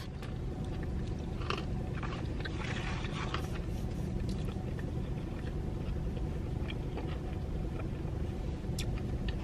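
Steady low rumble of a car cabin with the engine running, with a few faint rustles and clicks.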